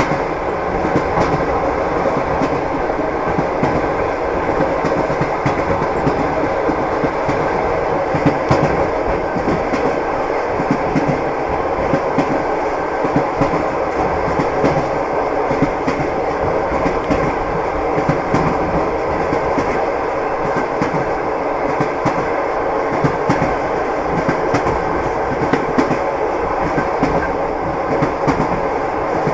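Train wheels knocking over the rail joints, a steady rolling rumble with many short clacks running through it.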